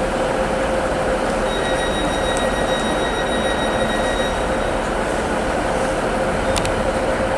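Grand Central Class 180 diesel multiple unit running steadily at the platform. A high-pitched squeal, like rail or brake squeal, is held for about three seconds starting a second and a half in, and a couple of sharp clicks come near the end.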